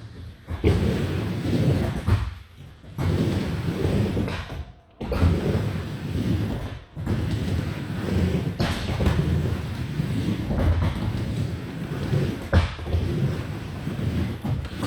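Skateboard wheels rolling with a steady low rumble across indoor skatepark ramps, with a few sharp board knocks. The sound cuts off abruptly several times.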